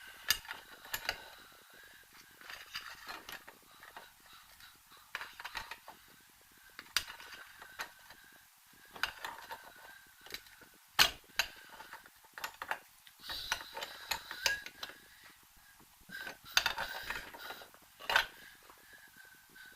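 Irregular metallic clinks, taps and knocks of tools and steel parts being handled during rear drum-brake work on a car, with a few sharper strikes, the loudest about halfway through and again near the end.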